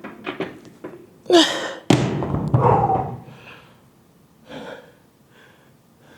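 A man's hard, gasping exhales while lifting dumbbells, with a heavy thud about two seconds in, a few light clicks before it and a softer breath later.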